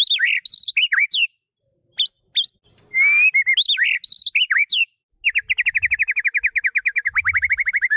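White-rumped shama (murai batu) singing: quick whistled notes sliding up and down, with the same phrase given twice about three seconds apart, then a fast, even trill of about ten notes a second from about five seconds in.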